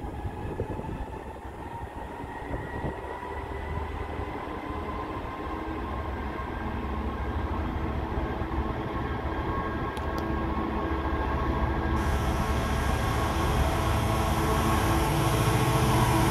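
A train growing steadily louder, with a whine that rises slowly in pitch. About twelve seconds in, a high hiss joins it.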